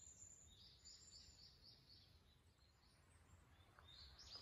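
Faint songbird calls in a forest: a quick run of about six short high notes a little under a second in, with more high calls near the start and near the end, over a faint low rumble.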